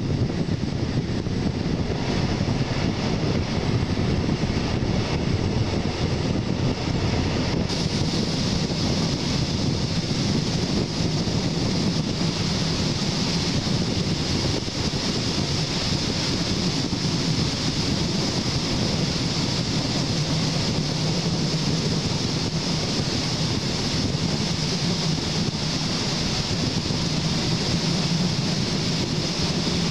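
Running train heard from an open coach window behind a class 219 diesel locomotive: a steady rumble from the engine and wheels on the rails, with wind buffeting the microphone.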